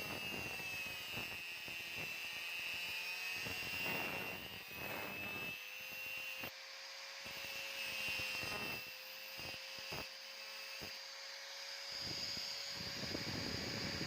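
Electric grinder running with a steady high whine, broken by short scraping contacts as it works the steel.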